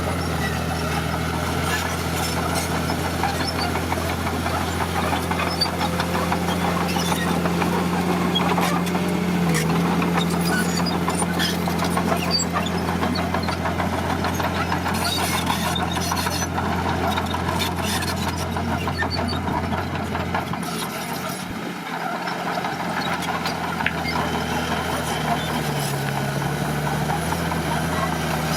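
Diesel engine of heavy earthmoving machinery running steadily. Its low end dips briefly a little past two-thirds of the way in, and its pitch wavers near the end as the load changes.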